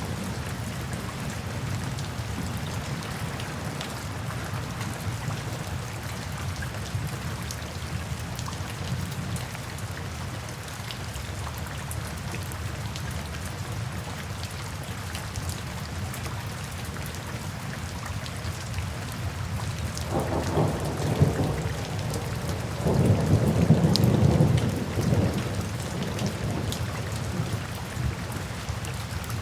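Steady rain falling, with scattered drops ticking on a surface, and a rumble of thunder rolling in about two-thirds of the way through, loudest near the end.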